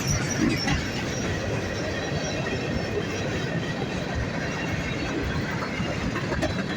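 Railcars rolling past on the rails: a steady, even rumble of train wheels.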